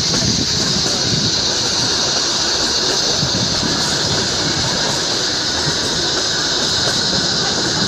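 Kalka–Shimla narrow-gauge toy train running, a dense low rumble with a steady high-pitched sound held over it.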